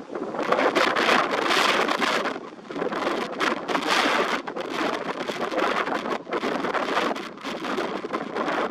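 Strong wind gusting and buffeting the microphone, surging and easing in waves with a brief lull about two and a half seconds in.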